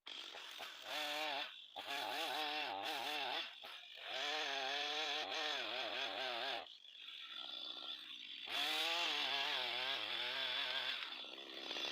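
Two-stroke chainsaw running in the cut, its engine pitch wavering up and down as it works through the wood, in several stretches with short drops in between.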